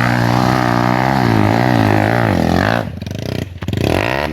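Trail motorcycle engine revving hard under load on a steep muddy hill climb, its pitch wavering as the throttle works. It drops off briefly about three seconds in, then revs up again near the end.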